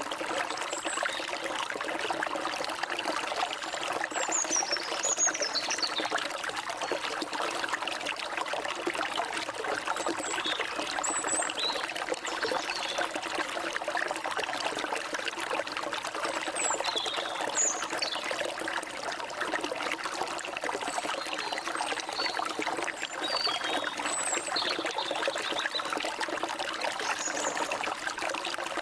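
Small stream trickling and splashing steadily over stones, with birds giving short high chirps and quick down-slurred whistles now and then over the water.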